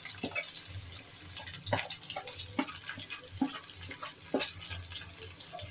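Chopped onion, capsicum and green chillies sizzling in hot oil in a steel pan, with a steady hiss. A metal ladle knocks and scrapes against the pan about once a second as they are stirred.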